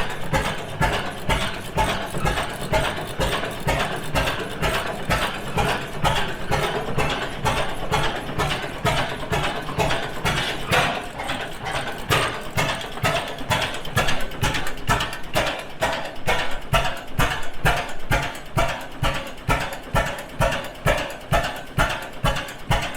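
International Harvester 25 horsepower Mogul portable engine running, with a steady beat of about two strokes a second and a clatter of mechanism over it.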